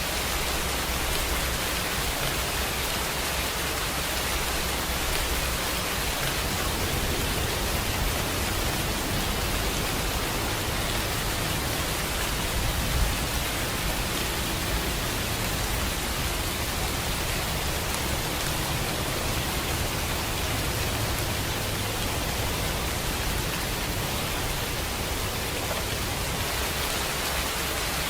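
Steady, even rainfall, a constant hiss of rain with no let-up; a brief slightly louder patter about thirteen seconds in.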